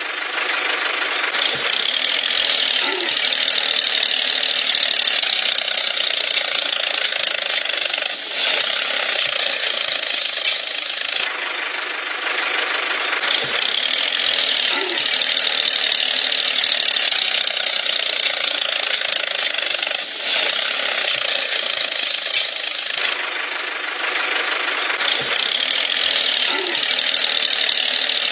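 Small electric motor and gearing of a DIY model tractor whirring steadily with a rattly, buzzing edge; the same stretch of sound repeats about every twelve seconds.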